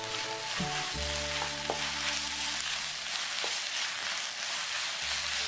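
Shishito peppers, red chilies and fish cake sizzling steadily in oil in a frying pan as they are stir-fried with a wooden spatula.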